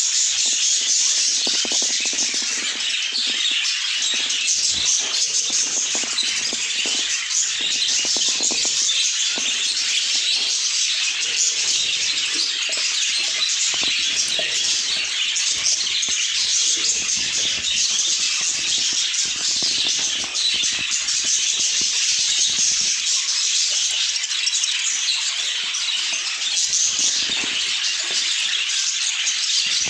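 A flock of budgerigars chattering and chirping continuously, many birds at once in a steady, busy twittering.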